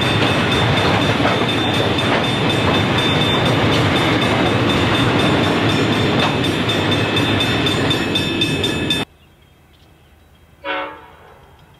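Wagons loaded with concrete sleepers rolling past close by: a steady rumble and rattle of wheels on rail with a thin steady whine over it, cut off abruptly about nine seconds in. Near the end, a distant diesel locomotive gives one short horn blast as it approaches.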